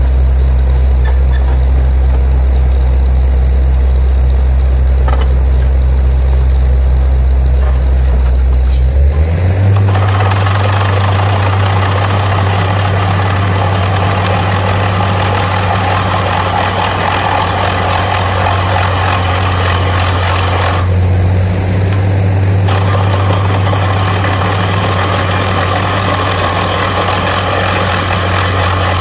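Borewell drilling rig's heavy diesel engine running loud and steady. About nine seconds in, the engine revs up and a loud rushing noise joins it. The rushing cuts out for a couple of seconds later on, then comes back.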